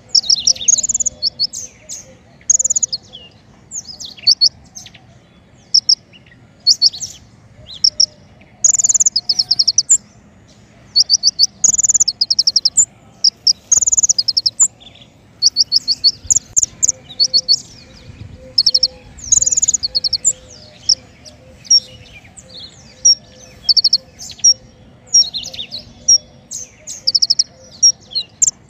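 Small songbird of the kind Indonesian bird-keepers call 'king konin' singing very high, rapid trilled phrases. The phrases come in short bursts, one after another, with brief chirps between them, as a tutoring and lure song.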